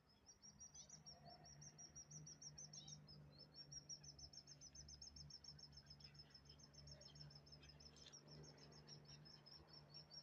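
Faint, high-pitched rapid chirping from small birds in long, even runs that break briefly about three seconds in, over a steady low hum.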